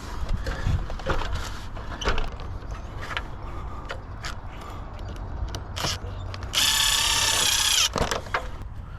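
Scattered clicks and knocks of hardware being handled, then a loud mechanical whirring, ratchet-like burst lasting just over a second about two-thirds of the way in.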